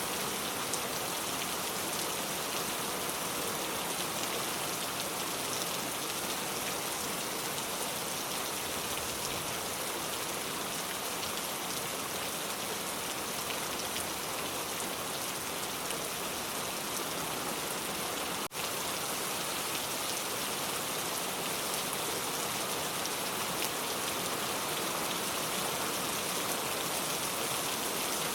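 Steady rain falling, an even hiss of many drops. It cuts out for an instant about two-thirds of the way through, then carries on unchanged.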